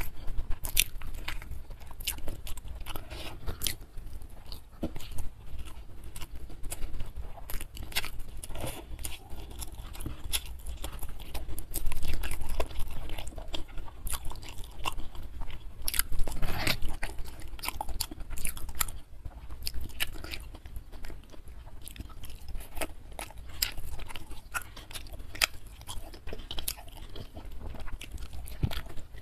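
Close-up chewing and crunching of a mouthful of fried catfish, rice and vegetables eaten by hand, with many sharp crunches that are loudest around 12 and 16 seconds in.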